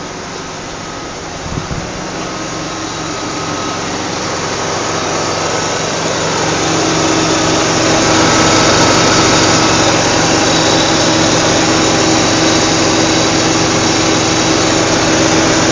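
A 1995 Lexus ES300's 1MZ-FE 3.0-litre V6 runs shortly after start-up on freshly changed oil. It grows louder over the first several seconds, then holds steady, with a brief knock about a second and a half in.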